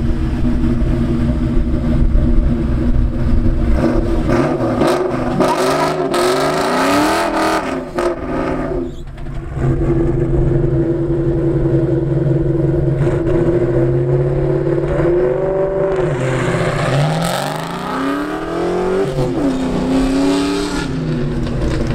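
Bolt-on modified 1996 Ford Mustang GT 4.6-litre two-valve V8 accelerating hard away, loud throughout, its revs rising in long sweeps several times with a brief drop about eight seconds in.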